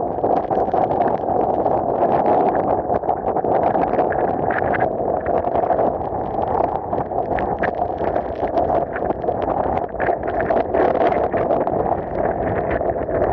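Typhoon wind blasting across the microphone: a loud, continuous rushing roar with constant crackling buffets.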